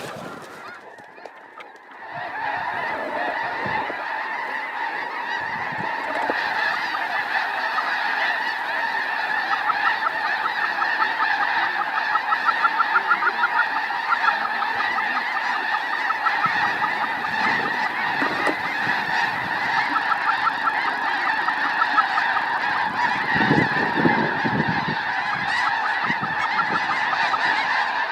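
Snow geese calling in a dense, continuous chorus of high honks that swells in about two seconds in and carries on without a break.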